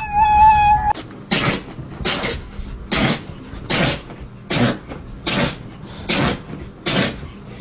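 A dog sneezing over and over: about eight short, sharp nasal bursts at an even beat of roughly one every 0.8 seconds. A steady high-pitched tone plays in the first second before them.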